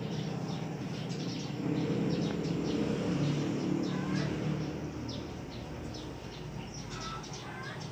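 Background ambience with small birds chirping: short high chirps repeating over a low steady murmur, with a few brief whistled notes about halfway through and near the end.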